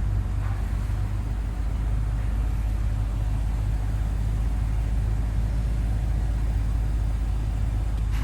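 BMW M5's twin-turbo V8 idling, a steady low hum heard from inside the cabin.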